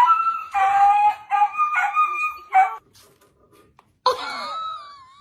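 An animal calling loudly in several held, steady-pitched segments, and a few seconds later a shorter call whose pitch wavers and glides.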